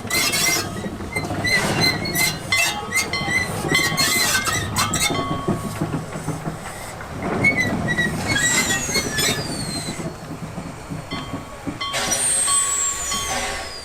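Steam-hauled train moving slowly during shunting: metal clanks and clinks from couplings and buffers, with wheel flanges squealing in high, falling glides about eight seconds in and again near the end.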